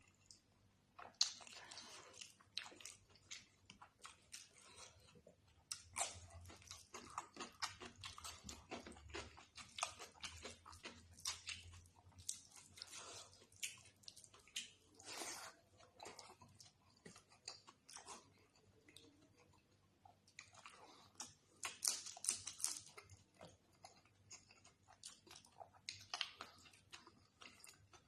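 A person eating chicken curry and rice close to the microphone: chewing and biting, with many short, irregular mouth clicks and the odd crunch.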